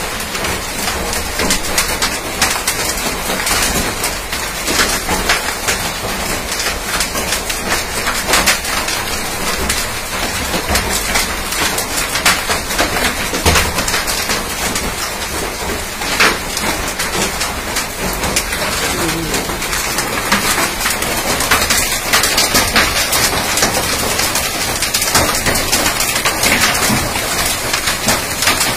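Hailstorm: hailstones falling fast and hitting hard surfaces, a dense, steady clatter of countless small hits over a hiss like heavy rain.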